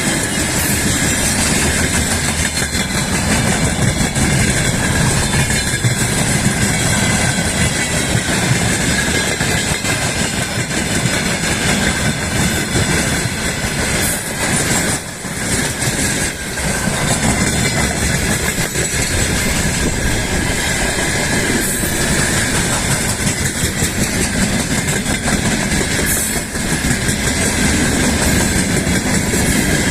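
Freight train rolling past on the rails: a continuous rumble and clatter of wheels, with a thin steady ringing tone above it and a few sharp clicks from the rail joints.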